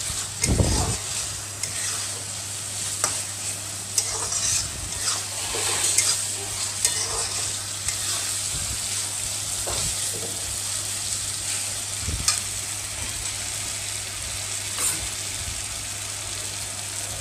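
Onion-and-spice masala sizzling in oil in a metal kadai while a slotted steel spatula stirs it, with scattered scrapes and taps of the spatula against the pan and a knock just after the start.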